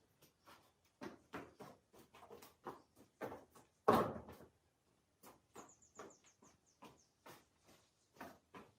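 Irregular knocks and clicks, with one louder thump about four seconds in and a short run of faint high chirps just after it.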